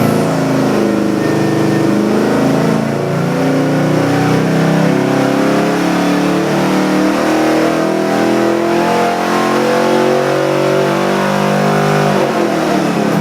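Ford 408 Windsor stroker V8 crate engine running, its speed rising and falling as it is revved.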